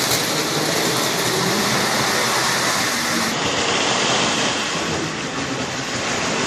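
Lionel No. 45 missile launcher's motorized unit running on toy train track: a steady whir of its small electric motor and gears, with wheel noise on the rails.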